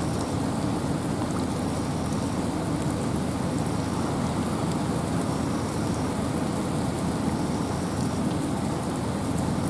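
Wind and rain in a forest: a steady, even rush, heaviest in its low rumble, with fine raindrop ticks throughout.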